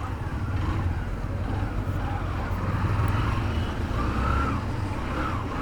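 Motorcycle engine running steadily with a low rumble while the bike is ridden.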